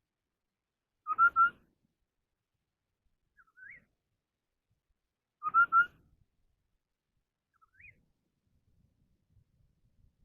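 A 'họa mi đất' songbird singing two loud phrases of three quick whistled notes, each answered about two seconds later by one fainter rising whistle, as in competition singing.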